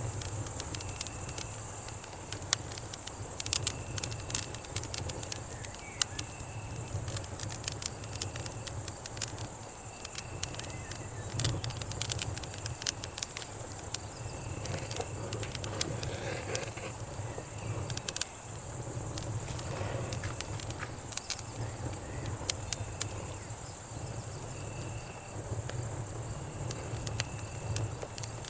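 Night insects, cicadas and crickets, keep up a steady high-pitched drone, with a short cricket chirp repeating every second or two. Campfire crackling sounds through it as scattered sharp pops and snaps over a low rumble.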